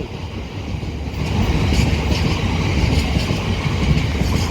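Electric passenger train running on the rails, a steady low rumble with faint wheel clicks.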